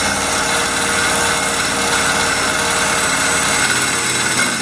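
Electric burnishing tool running steadily against the truck's body panel, stripping paint: a steady motor whine over a continuous scraping hiss.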